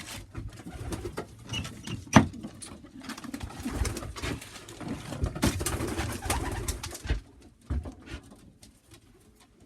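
Pigeons cooing in a loft, with a few sharp knocks and rustles among them; it quietens after about seven seconds.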